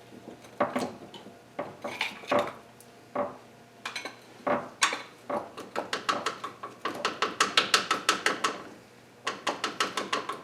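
Metal hand tools clinking and knocking, then a ratchet wrench clicking rapidly as a bolt is turned, pausing briefly before clicking on again.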